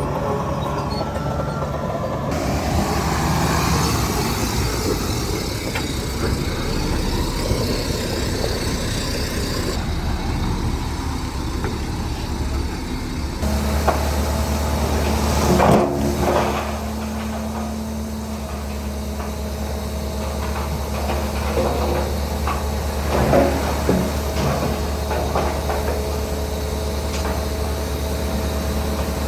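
Heavy diesel earthmoving machinery running steadily, with a bulldozer and a dump truck at work in loose soil. About halfway a deeper, steady engine hum sets in, and there are a few short metallic clanks.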